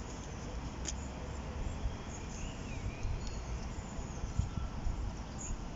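Outdoor riverside ambience: a low, uneven rumble with a few short bird chirps near the middle and a single sharp click about a second in.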